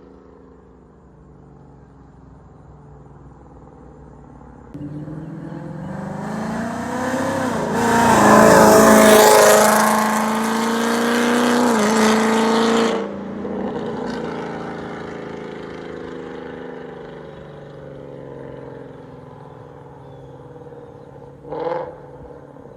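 Ford Mustang GT's 5.0 V8 with catless long-tube headers and a Ford Performance by Borla catback exhaust, accelerating hard past: the note builds and climbs in pitch, dips briefly, then drops off abruptly when the throttle is lifted and fades as the car drives away. A short, sharp burst of sound comes near the end.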